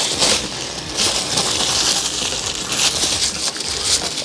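Crunchy chewing of a crispy fried chicken wing, a continuous run of crackling crunches.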